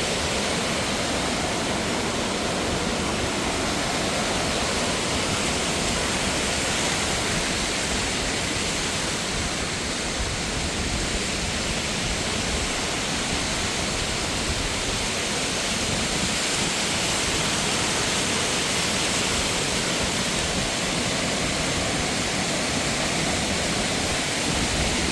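Mountain waterfall rushing: a steady, loud, even roar of falling water.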